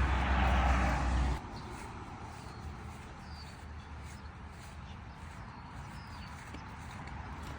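A low rumbling rustle that stops suddenly about a second and a half in, then a quiet outdoor background with a few faint, short, high chirps of small birds.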